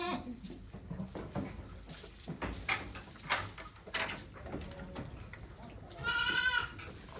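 A goat bleating: one loud, drawn-out bleat about six seconds in, with the tail of another at the very start. Faint rustles and small knocks fill the gap between them.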